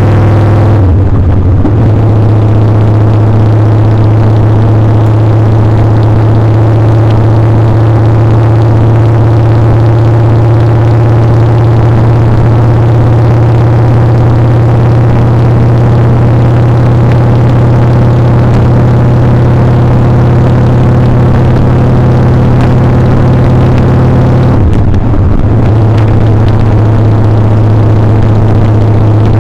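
Motorcycle engine running steadily while riding, loud and close. The engine note breaks briefly and settles at a slightly lower pitch twice, about a second in and near the end.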